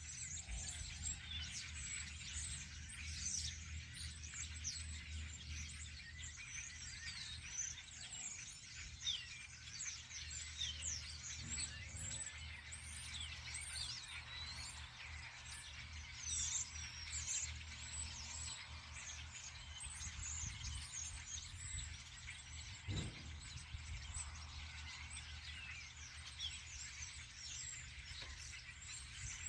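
Many songbirds chirping and twittering at once, a continuous chorus of short high calls, over a steady low rumble. There is a single soft knock about two-thirds of the way through.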